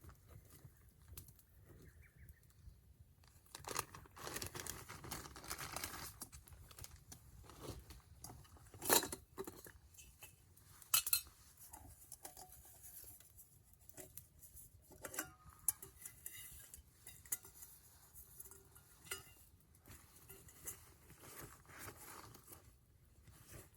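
Wood campfire crackling, with irregular snaps and pops; two sharper pops stand out about nine and eleven seconds in.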